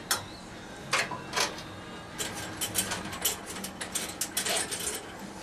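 A series of short clicks, scrapes and light knocks, several in quick clusters, from hand work with small metal parts and tools.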